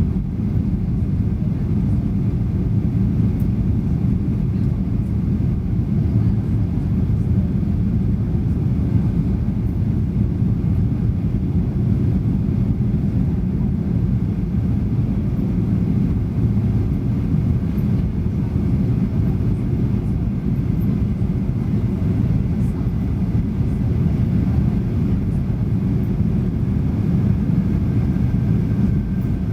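Steady low rumble inside a Boeing 737's cabin in flight: engine and airflow noise, even and unbroken.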